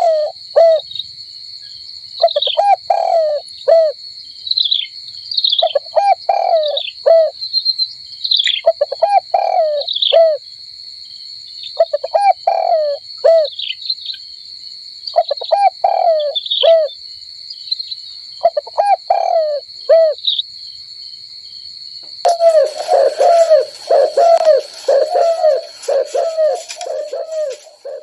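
Dove cooing: a phrase of several short rising-and-falling coos, repeated about every three seconds, with high falling chirps from another bird between the phrases and a steady high-pitched tone behind. About six seconds before the end the coos run together without pause.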